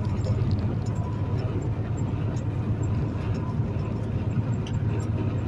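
Semi truck's diesel engine and road noise heard from inside the cab while driving, a steady low drone.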